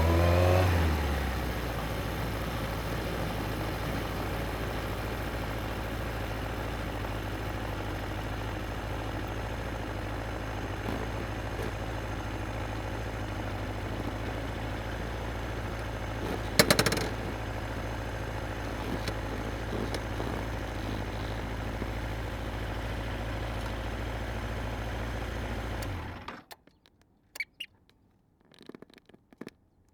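Yamaha XJR1300's air-cooled inline-four motorcycle engine: a short throttle blip settles into a steady idle, with one sharp clack past the middle. The engine then cuts off suddenly a few seconds before the end, leaving a few faint clicks.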